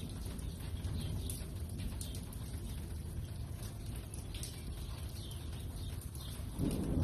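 Thunderstorm ambience: a steady low rumble with scattered short bird chirps, then a roll of thunder swelling in suddenly near the end.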